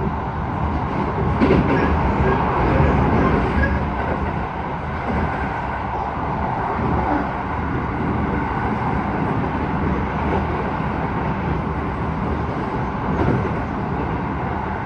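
Keisei 3000 series electric train running at speed, heard from inside the car: a steady rumble of wheels on rail, with a couple of brief knocks, one about a second and a half in and one near the end.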